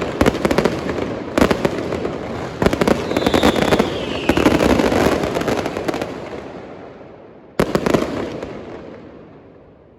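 Aerial fireworks bursting in rapid, crackling barrages for about six seconds. A last volley comes near eight seconds, then the noise dies away.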